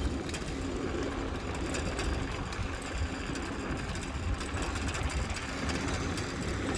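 Bicycle tyres rolling over old wooden boardwalk planks: a steady rumble with a rapid, uneven clatter.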